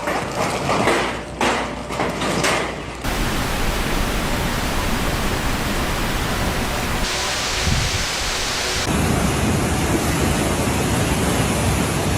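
Loud, steady rushing noise of heavy water, torrential rain or flood torrent. It follows an uneven, choppier stretch that cuts off abruptly about three seconds in. The noise turns hissier for a couple of seconds in the middle, then deeper and rumbling for the last few seconds.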